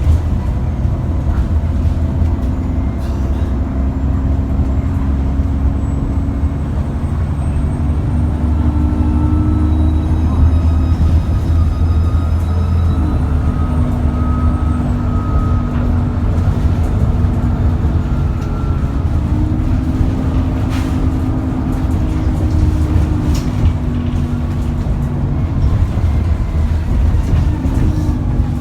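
An ADL Enviro400 bus's Cummins ISBe 6.7-litre diesel engine under way, a steady low rumble whose pitch rises and falls twice as the bus pulls away and picks up speed. A high turbocharger whine climbs in about six seconds in and fades away about halfway through.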